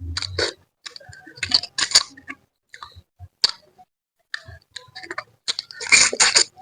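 Close-up eating sounds from a person eating spicy manyung fish head: wet chewing and mouth smacks in short irregular bursts with brief pauses. There are small clicks among them, and the busiest cluster comes near the end.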